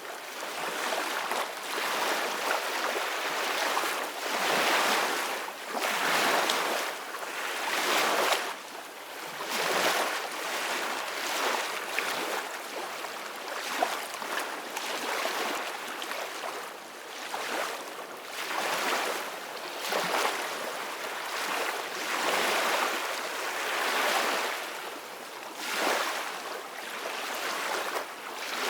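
Ocean waves breaking and washing up on a beach, the surf swelling and falling every few seconds.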